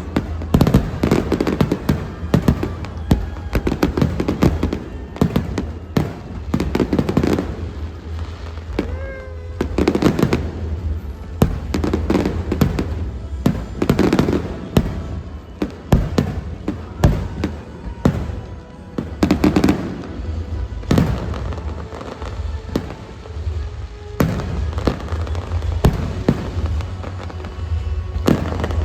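Fireworks bursting over and over, many sharp bangs in quick clusters, with music playing underneath.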